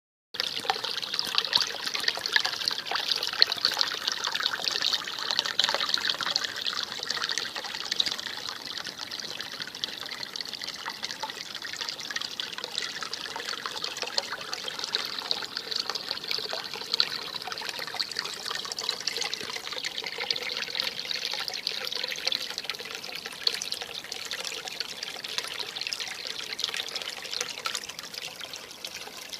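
A small spring stream of snowmelt trickling and gurgling over stones, a steady busy babble of water.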